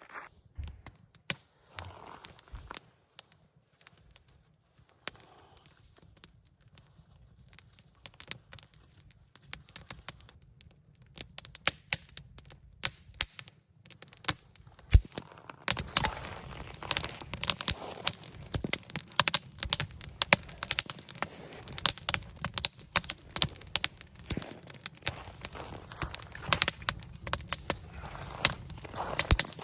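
Campfire crackling and popping, sparse at first and much busier about halfway through.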